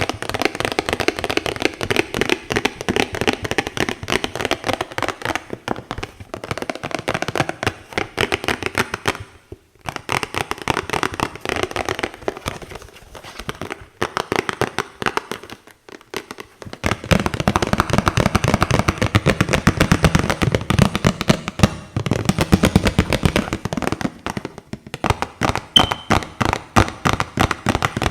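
Tapping and scratching on boxes: dense runs of quick taps with short pauses about ten and sixteen seconds in. From about seventeen seconds the taps have a deeper, fuller sound.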